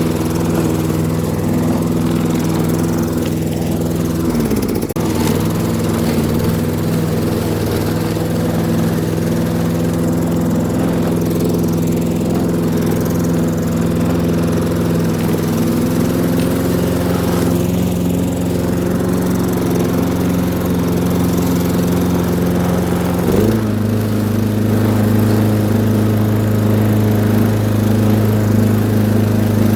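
Lawn mower engine running steadily while cutting tall grass, its pitch dipping briefly about four seconds in and then recovering, and settling into a lower, deeper note about three quarters of the way through.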